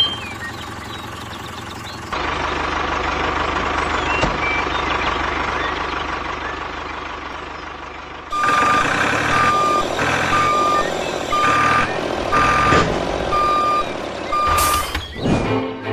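A reversing alarm beeping steadily about once a second in the second half, over steady vehicle or machinery noise.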